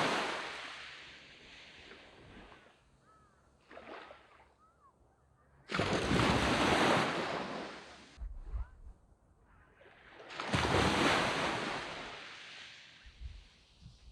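Sea waves breaking on a sandy beach: three large breakers, at the start, about six seconds in and about ten seconds in, each rising suddenly and washing out over two to three seconds, with a smaller wave between the first two.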